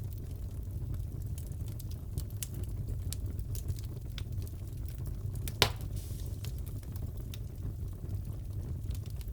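Fireplace crackling: a steady low rumble of the fire with scattered small crackles and one louder pop about five and a half seconds in.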